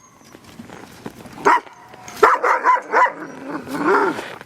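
Alaskan Husky sled dogs barking and yipping: one short bark about a second and a half in, a quick run of barks from about two to three seconds, then a longer, rising-and-falling call near the end.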